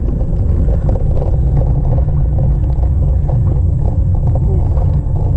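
Wind buffeting the microphone of a camera on a moving road bike, a steady low rumble, with road noise underneath.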